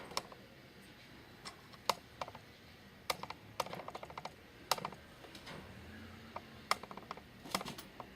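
Irregular sharp clicks and taps, some coming in quick runs.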